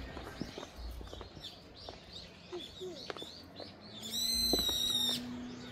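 Wild birds chirping and singing in the trees. About four seconds in there is one loud, high, held call lasting about a second.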